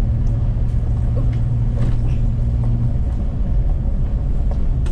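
Pickup truck driving on a rough gravel road, heard inside the cab: a steady low drone of engine and tyres, with scattered clicks and rattles from gravel and bumps. The strongest low hum drops away about three seconds in.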